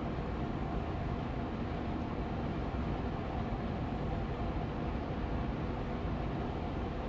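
Austin Air Allergy Machine air purifier fan running steadily on medium speed: an even hum and rush of moving air, heaviest in the low end, with a faint steady tone riding on it.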